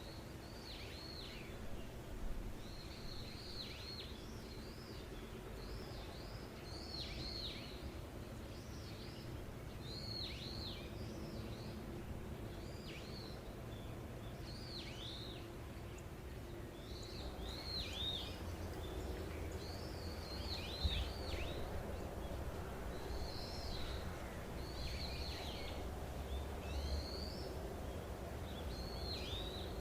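A small bird calling over and over, short chirps that sweep downward, about one a second, over a low steady background rumble that grows a little louder about halfway through.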